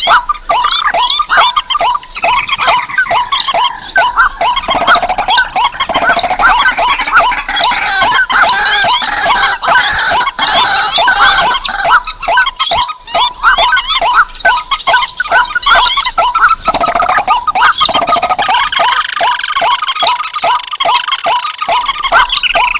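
Mixed lure recording of several wetland rails (crakes, waterhens and swamphens) calling together: a dense, loud run of fast repeated short notes, about four a second, with longer, higher calls laid over them.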